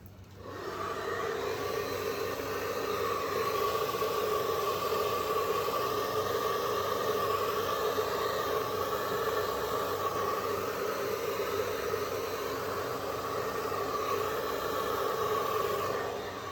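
Hair dryer, used without its nozzle attachment, switched on just after the start and blowing steadily: a rushing blow with a steady hum in it, easing slightly near the end.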